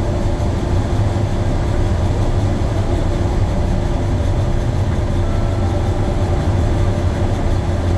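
Combine harvester running steadily while harvesting corn: a constant low drone with a faint steady hum above it.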